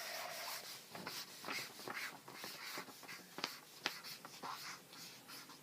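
Writing on a sheet of paper: many short, irregular pen strokes, with two sharp taps a little after the midpoint.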